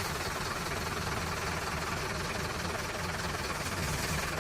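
An engine running steadily, a low even rumble with no clear change in pitch.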